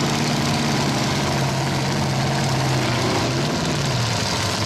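Demolition derby truck engines running, with one steady engine note that drops in pitch about three and a half seconds in.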